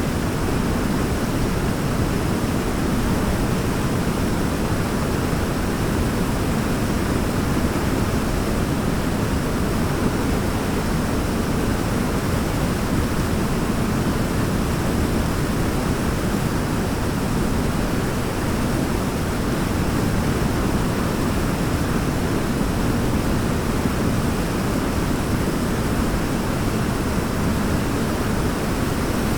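Waterfall: a steady rush of falling water, deep and even, that does not change.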